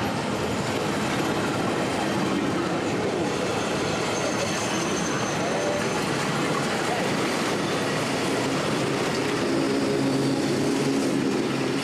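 Steam train running on the rails, a steady rumbling rattle, with a low steady hum joining in near the end.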